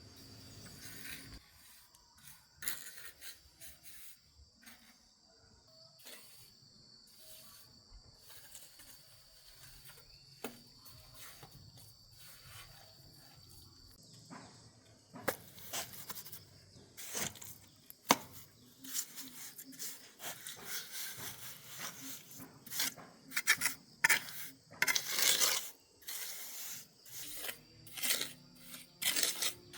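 Hand-tool scraping and rubbing in irregular rough strokes, sparse at first, then louder and quicker from about halfway, with one sharp knock. A steady high insect drone runs under the first half.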